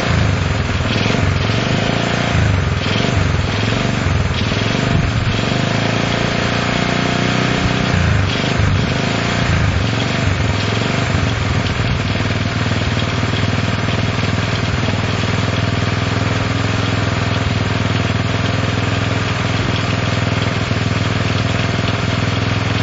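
Honda CL70's small four-stroke single-cylinder engine running. For about the first ten seconds its speed rises and falls as the throttle is worked, then it holds steady. The engine will not hold an idle and has to be kept on the throttle to keep running.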